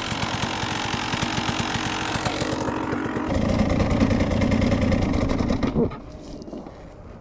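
Dirt bike engine running close by with rapid firing pulses, then getting louder and heavier about three seconds in as it is revved; it cuts off suddenly near six seconds.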